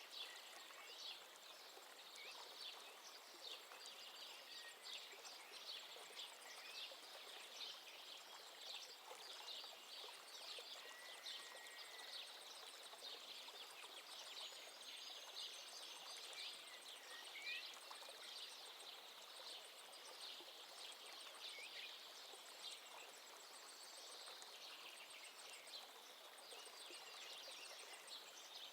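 Faint birdsong: many birds chirping rapidly and continuously, with a few short whistles, over a soft background hiss.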